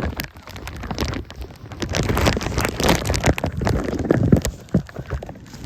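Wind buffeting the microphone in the rain, with irregular thumps and knocks throughout.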